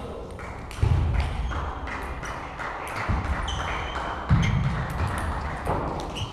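Table tennis ball clicking off bats and the table in quick, irregular taps, mixed with a few dull low thuds, echoing in a large hall.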